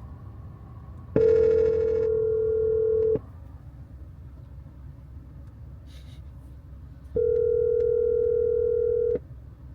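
Phone ringback tone of an outgoing call, heard twice: a steady two-second tone, then about four seconds of gap, then the tone again. The call is ringing at the other end without being answered.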